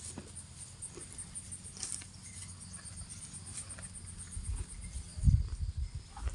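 Insects chirping in a steady high pulsing over a cow grazing: scattered faint ticks of grass being torn and chewed. Low thumps come in about four seconds in, the loudest just past five seconds.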